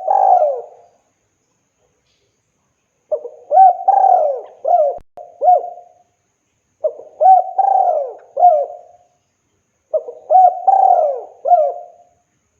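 Spotted dove (tekukur) cooing: the end of one phrase, then three full multi-note coo phrases, each about two to three seconds long with about a second of silence between them. It is a male calling to a female.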